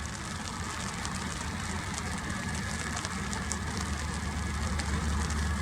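Rain falling, with drops ticking sharply close to the microphone over a steady low rumble that grows stronger near the end.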